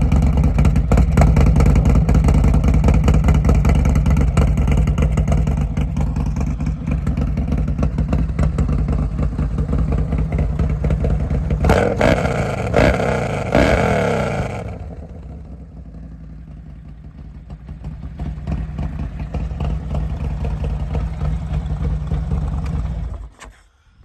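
S&S 131 cubic-inch V-twin motorcycle engine with an S&S 540 cam, running loud through a D&D big bore baffle exhaust. It is revved in a few quick blips about halfway through, drops back to a quieter idle, picks up again, and is shut off just before the end.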